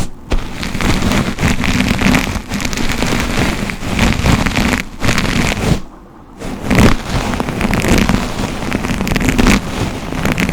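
A brush worked through hair close to the microphone: a dense, scratchy rustle of quick strokes, breaking off briefly about five and six seconds in.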